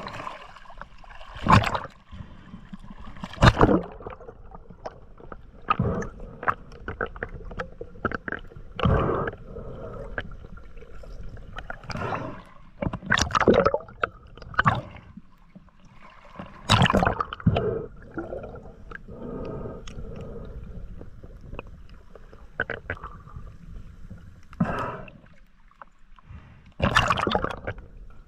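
Water splashing and gurgling in irregular bursts, with a dozen or so louder splashes over a steady background wash.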